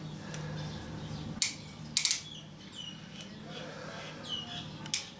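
Small sharp clicks and taps of hands working with wire and a plastic connector, twice about a second and a half and two seconds in, over a steady low hum, with a few short bird chirps.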